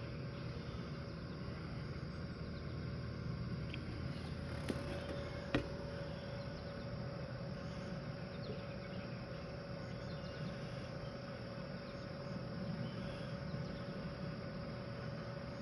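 Steady low background hum with a faint steady tone running through it, and two light clicks about five seconds in.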